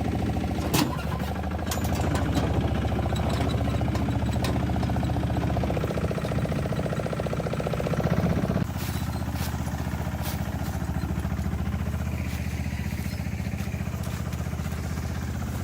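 An engine running steadily, with a drop in its higher part of the sound about eight and a half seconds in.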